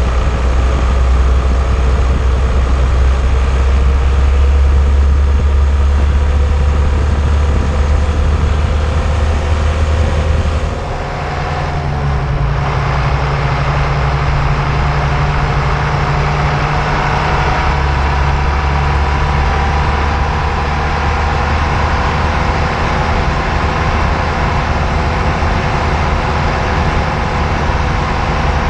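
Underside noise of an old car on the move, picked up from a camera mounted on the anti-roll bar: a steady, heavy low rumble of tyres and road mixed with drivetrain noise. About 11 s in the level dips briefly and the rumble changes to a steadier hum.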